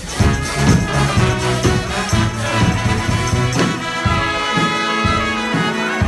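Brass band playing live: trumpets and trombones holding sustained notes over a steady drumbeat of about two strikes a second, with the drums thinning out about four seconds in.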